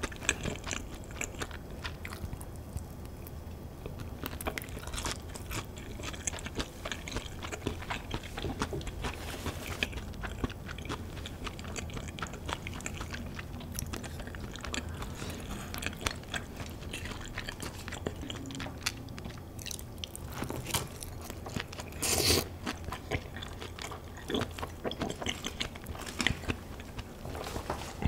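Close-miked eating sounds: crunchy bites and wet chewing of Kyochon Honey Combo fried chicken, with small clicks of chopsticks and a dish. One louder crunch or knock comes about three-quarters of the way through.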